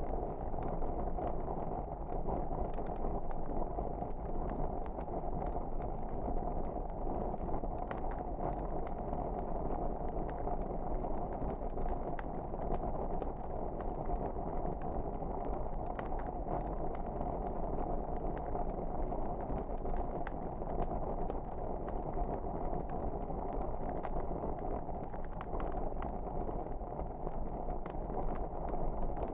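Wood fire crackling: a steady low hiss of burning logs with frequent, irregular sharp snaps and pops.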